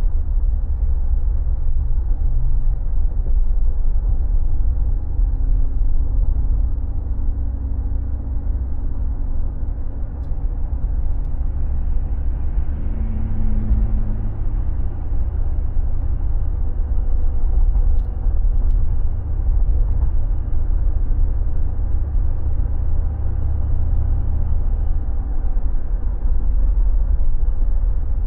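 Mercedes G36 AMG's 3.6-litre straight-six engine running while the vehicle is driven, a steady low rumble with road noise and small changes in engine pitch.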